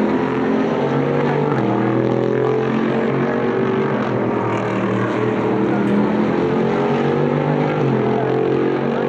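Several GT race car engines running at once, their exhaust notes overlapping at different pitches that step up and down as they accelerate and shift.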